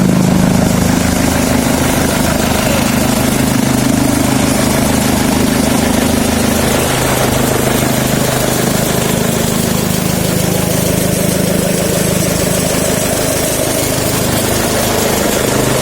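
Tractor engine running steadily at a constant speed, driving a chaff cutter, with a continuous high hiss over the engine note. The engine's pitch shifts slightly about halfway through.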